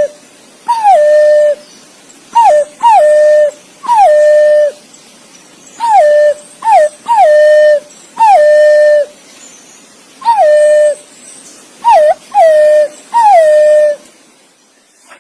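Green pigeon (punai) giving its whistled call: about a dozen clear whistles, each dropping sharply in pitch and then held steady for up to a second, often a short note leading into a longer one, with pauses between groups. The calling stops about a second before the end.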